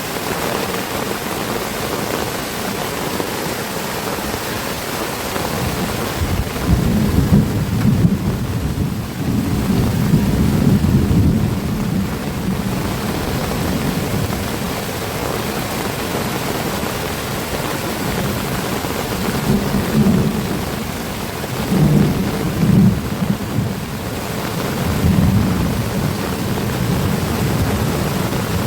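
Heavy rain pouring steadily, with deep low rumbles that swell and fade several times. The longest runs from about six to thirteen seconds in, with shorter ones near the end.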